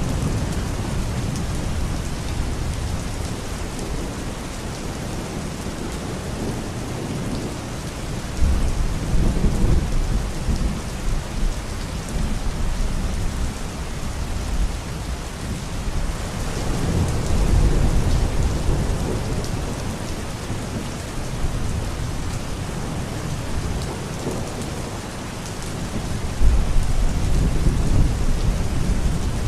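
Steady rain falling, with low rolling thunder that swells up three times: about a third of the way in, just past the middle, and near the end.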